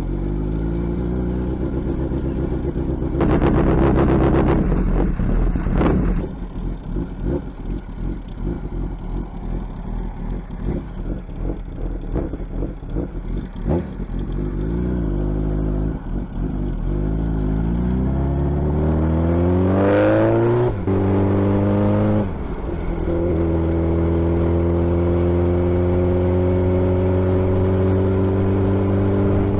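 Suzuki Hayabusa motorcycle's inline-four engine through a loud exhaust, starting abruptly, revving hard a few seconds in, then running unevenly at idle. Later the engine note climbs, drops sharply twice, and settles into a steady, slowly rising note.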